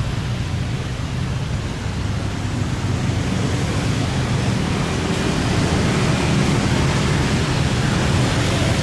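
Steady vehicle noise: an even rushing hiss over a low droning hum, growing somewhat louder about three seconds in.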